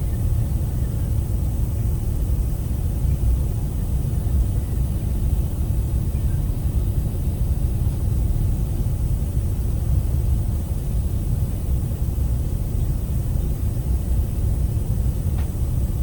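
Steady low rumble of an Airbus A380's cabin in flight: engine and airflow noise heard from inside the cabin, even throughout with a faint hiss on top.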